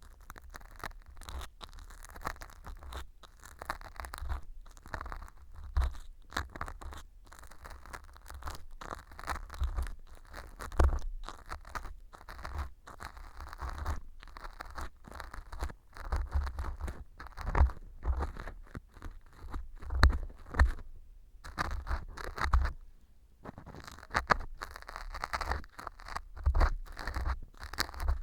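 An earpick scraping and crunching at dry fu (baked wheat gluten) glued into an ear model as mock earwax. It comes in quick, irregular scratchy strokes with occasional low thumps. The glue has set the fu hard, so the pick grates at it.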